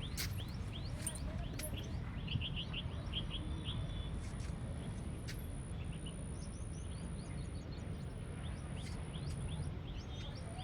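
Small birds chirping repeatedly in short down-slurred notes, with a quick run of notes about two to four seconds in, over a steady low rumble and a thin, high, steady tone.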